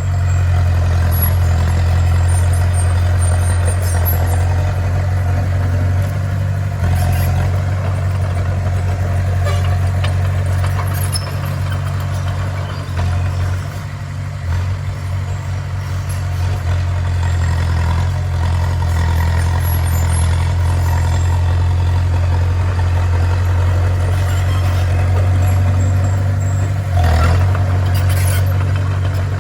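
Bulldozer's diesel engine running steadily with a low drone, easing off briefly about halfway through.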